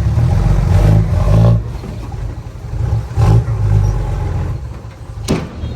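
Heavy diesel earthmoving machinery running under load. The engine rumble swells and eases several times, and a brief sharp sound comes near the end.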